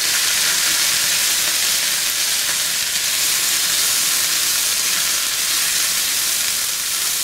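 Fresh green peas frying in hot mustard oil in a non-stick frying pan, giving a loud, steady sizzle as they are stirred with a spatula.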